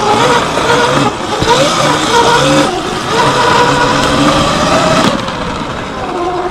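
Surron X Light Bee electric dirt bike's motor whining as it is ridden, its pitch rising and falling with the throttle, over steady wind and riding noise. It eases off a little about five seconds in.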